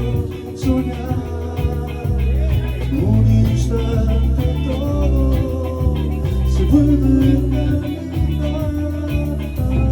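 A band playing at rehearsal: a bass line stepping from note to note under guitar and a gliding melodic lead, with a steady beat.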